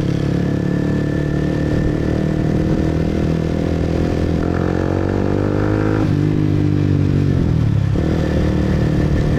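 Motorbike engine running under way. Its pitch rises over a couple of seconds past the middle, drops sharply about six seconds in, and dips again near eight seconds.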